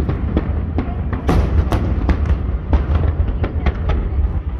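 Aerial fireworks shells bursting in quick succession: a run of sharp bangs, about three or four a second, over a continuous low rumble, the loudest pair about a second and a half in.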